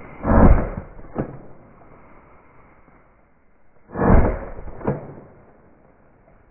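Two shotgun shots about four seconds apart, fired at a flushed pheasant; each blast is followed less than a second later by a sharper crack.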